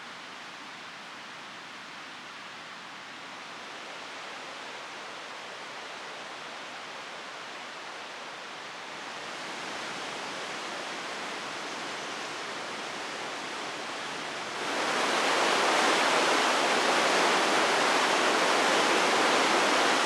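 Rushing water of a mountain river, a steady noise that grows louder in steps and jumps sharply louder about fifteen seconds in.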